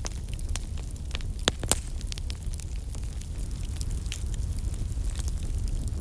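Campfire crackling: scattered sharp pops and snaps over a steady low rumble, with two louder pops about a second and a half in.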